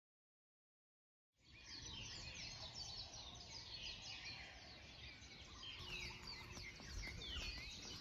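Silence for about a second and a half, then faint, dense chirping of many small birds, with a low rumble of wind on the microphone underneath.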